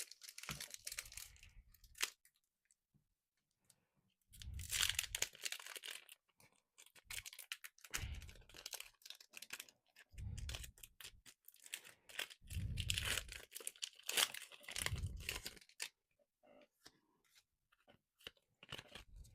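Foil wrapper of a Pokémon card booster pack being torn open and crinkled by hand, in about six separate bursts of tearing and rustling.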